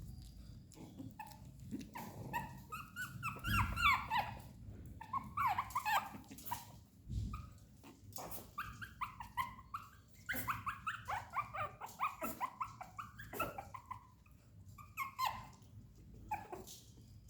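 Shih tzu puppies barking and whining: runs of short, high-pitched calls with a couple of brief pauses, and a few low thumps.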